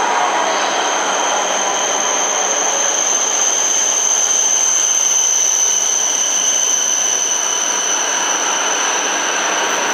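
Shinkansen trains moving at a station platform: a steady rushing rumble with a high steady whine. An E7-series set is close by at the start, and an E5-series set rolls in alongside the platform in the second half, where the rumble fills out.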